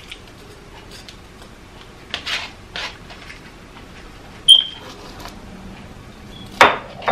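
Kitchen handling sounds: two short swishing scrapes about two seconds in, a sharp clink that rings briefly, then a knock near the end as something is set down.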